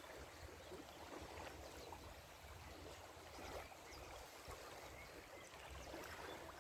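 Faint, steady rush of river water.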